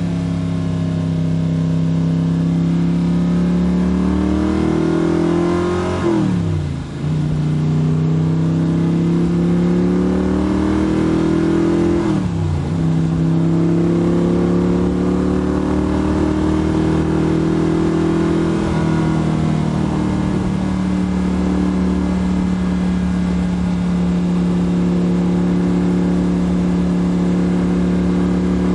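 A Backdraft RT3 roadster's custom Windsor-based Ford 445 ci V8, with custom headers, pulling hard under acceleration. The engine note climbs, drops sharply at upshifts about 6 and 12 seconds in, climbs again, then settles into a steady cruise from about two-thirds of the way through.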